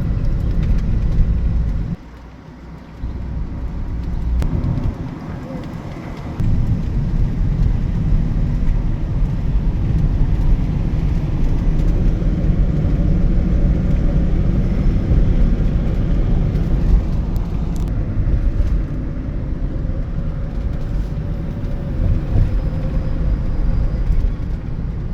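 Steady low rumble of a moving car, road and engine noise as heard from inside. It drops sharply about two seconds in and comes back a second later.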